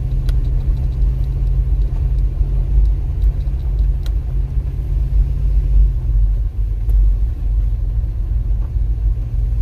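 Pickup truck in four-wheel drive climbing a steep, rough gravel road: a steady low engine and road rumble, the engine note dropping a little about six seconds in.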